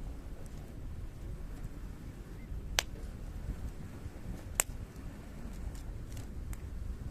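Hardwood campfire burning over a low steady rumble, with two sharp loud pops about three and four and a half seconds in and a few fainter crackles after.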